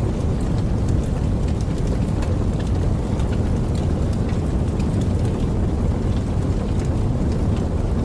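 Campfire burning with a steady low rumble and scattered small crackles and pops, several a second.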